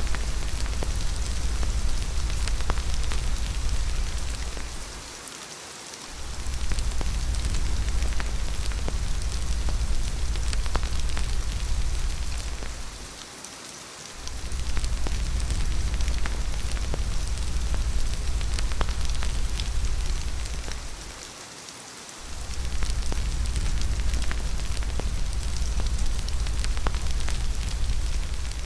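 Steady rain falling, with a deep low rumble underneath that drops out briefly three times, roughly every eight seconds.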